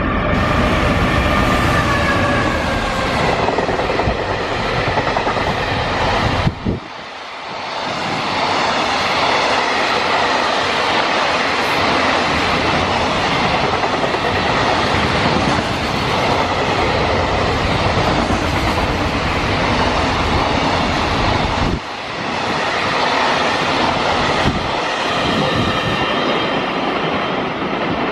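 Freight train passing close by at speed: a loud, continuous rumble and rattle of wagons on the rails, with a high whine in the first few seconds. The noise drops out abruptly twice, at about 7 and 22 seconds in.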